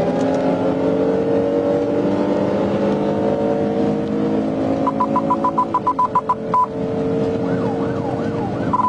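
Police cruiser's engine accelerating hard, its pitch climbing for the first few seconds and then holding. A quick run of about ten short, even beeps comes midway, and the siren starts warbling near the end.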